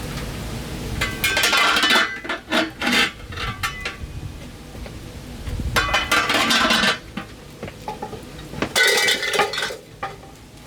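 Pots, dishes and utensils clinking and clattering in three bursts of a second or more each, as they are handled during food preparation.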